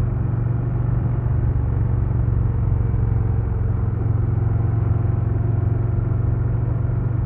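2022 Harley-Davidson Low Rider S's Milwaukee-Eight 117 V-twin running at a steady pace on the road, with a deep, even exhaust note that holds without revving up or down.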